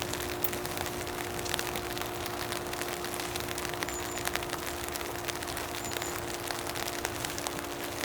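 Steady rain falling, with many single drops ticking close by, over a steady low hum.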